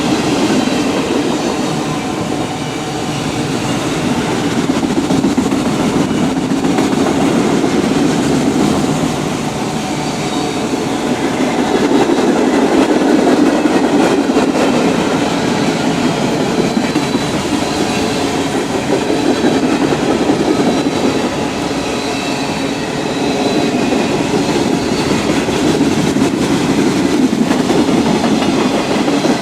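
Freight train rolling past: the steady rumble and clickety-clack of its wheels on the rails, swelling and easing slightly as the cars go by, with a faint high wheel squeal at times.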